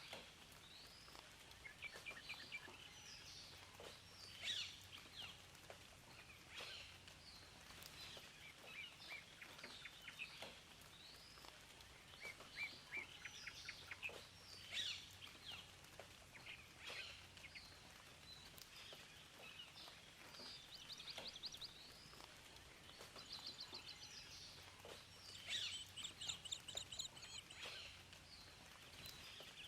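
Several songbirds chirping and singing over a faint steady hiss. Short calls overlap throughout, with rapid trills around the middle and again near the end.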